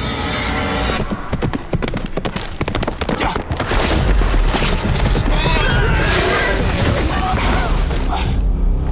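Horses galloping, hooves clattering rapidly on hard ground, then a horse neighing about midway through.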